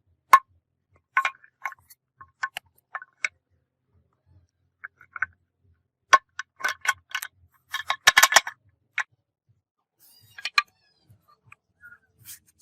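Metal parts being handled: irregular sharp clinks and clanks, each with a brief ring. They are sparse at first and come thick and fast about six to eight seconds in.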